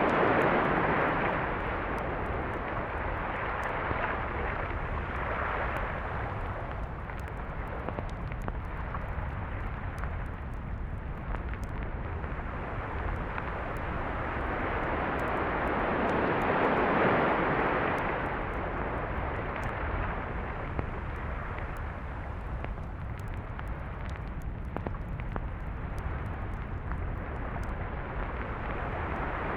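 Surf on a beach: waves breaking and washing up the shore in slow swells over a steady low rumble. The loudest swells come at the start and again a little past the middle.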